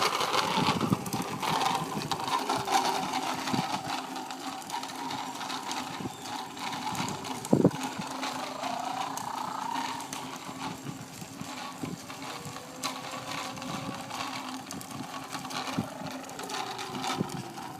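Bicycle being ridden, its chain and freewheel giving a steady rapid ratcheting tick, with one sharp knock about seven and a half seconds in.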